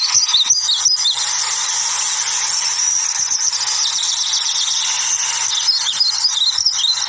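A dense chorus of many birds chirping at once, a continuous overlapping twittering with no pauses.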